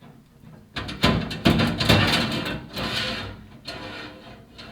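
Chimney inspection camera scraping and knocking against the clay flue tile walls as it is lowered down the flue: a loud run of rough rubbing and clicks starting about a second in, then dying down.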